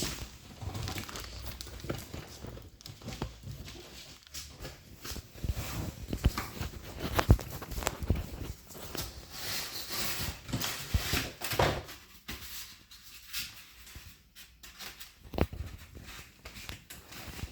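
Packaging being handled while a large TV is unboxed: irregular knocks, clicks and rustling.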